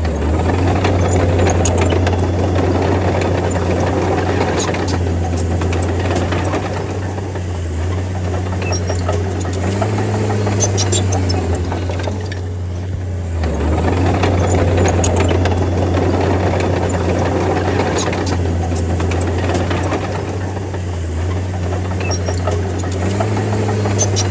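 Crawler bulldozer's diesel engine running steadily under load, its note rising briefly twice and dipping twice, with scattered sharp metallic clicks and clanks from the working machine.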